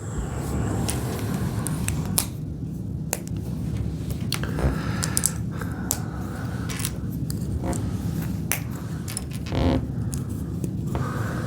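Plastic Lego bricks clicking and rattling as pieces are handled and pressed together: a few sharp, irregular clicks over a steady low hum.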